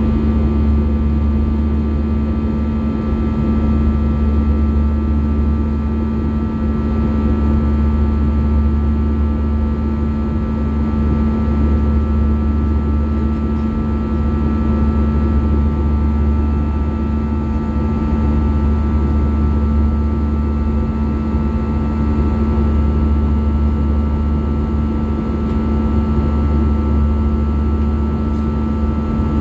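Steady cabin drone of an Airbus A320-214's CFM56-5B turbofan engines heard from inside the passenger cabin: a deep, even hum with a steady low whine and fainter higher tones, unchanging throughout.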